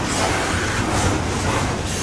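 Canadian Pacific coal train cars rolling by, a steady noise of steel wheels running on the rails.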